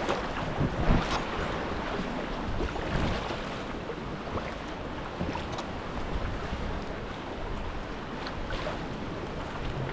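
Sea water lapping and splashing around a sea kayak, with wind buffeting the microphone, strongest in the first second.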